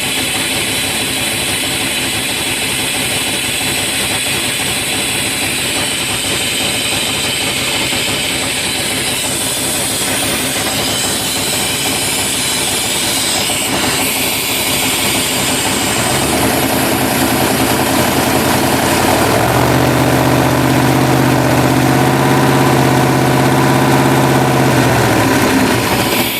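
1996 Dodge Ram 318 (5.2 L) V8 with an aftermarket Comp Cams camshaft, running steadily and then brought up from idle to about 2000 rpm, held there from a bit past the middle, for a vacuum gauge test.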